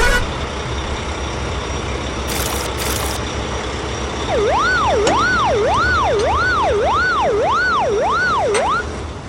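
Siren wailing up and down about one and a half times a second for around four and a half seconds, starting about four seconds in and stopping just before the end, over a steady low vehicle rumble. Two short hisses come a couple of seconds in.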